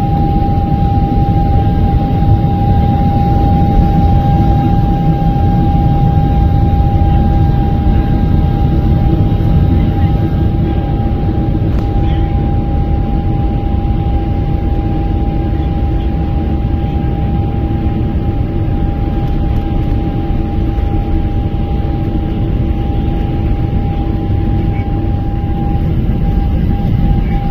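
Jet engines of a Boeing 777-300ER running: a steady, loud low rumble with a steady high tone held over it.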